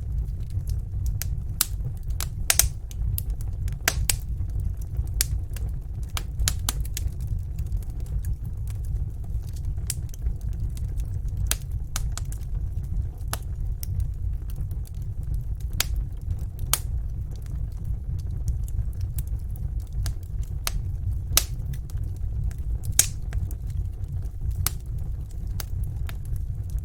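Wood fire in a fireplace crackling, with irregular sharp pops and snaps over a steady low rumble; a few pops stand out louder.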